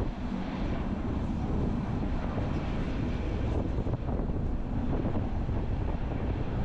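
Train running on the Bernina line, heard from an open observation carriage: a steady low rumble of the running train mixed with wind buffeting the microphone.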